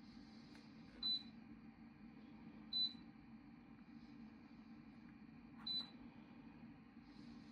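Three short, high electronic beeps, the humidifier's control panel answering button presses: one about a second in, one near three seconds, one near six seconds. A low, steady hum runs underneath.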